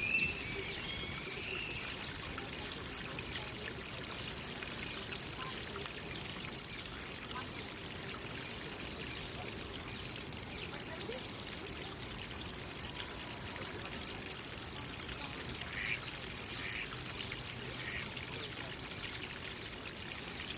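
Water trickling and flowing steadily into a pond, with a few short bird calls about a second in and again near the end.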